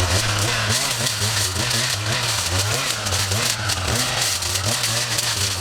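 An engine running, its low hum shifting up and down in pitch a little, under a steady hiss of noise.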